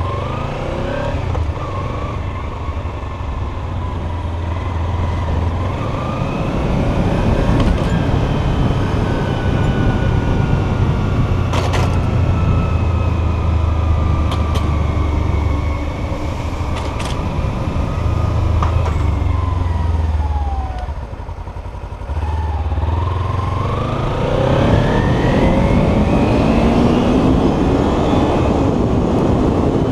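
Kawasaki Ninja 300's parallel-twin engine under way: the revs climb at first, sink slowly through the middle, drop briefly about twenty seconds in, then climb again through several gear changes near the end. A steady low wind rumble runs underneath.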